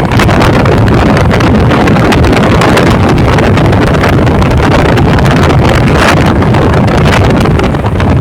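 Loud wind buffeting the microphone, a dense, steady rushing noise with a heavy low rumble.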